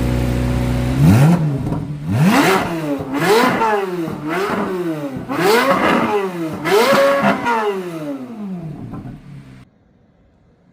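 Chevrolet Corvette C8 Z06's flat-plane-crank 5.5-litre V8 idling, then revved about six times in quick blips, each rising and falling in pitch. The last revs fade and the sound cuts off suddenly near the end.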